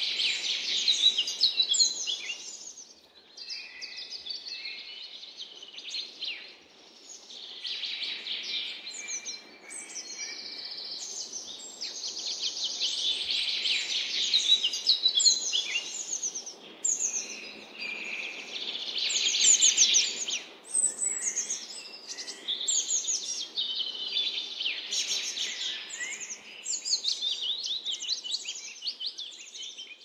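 Forest songbirds singing: a dense run of rapid, high-pitched trills and chirps that overlap almost without pause, over a faint steady low background hum.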